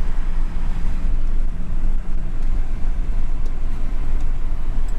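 1968 Rover P5b with its 3.5-litre V8 on the move: a steady low engine and road rumble, with a low hum in it that drops away a little over two seconds in.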